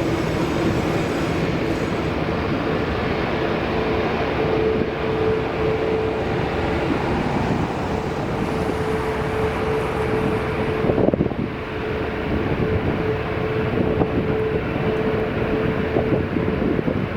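Jet airliner engines running steadily: a constant rushing noise with a steady whine, with wind noise on the microphone. A brief knock about eleven seconds in.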